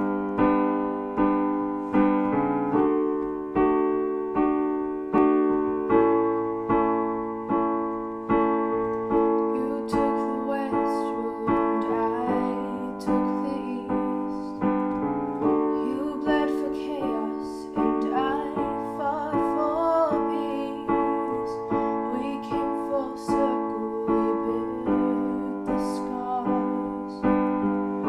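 Piano playing a slow song opening of evenly repeated chords, each struck and left to ring and fade before the next.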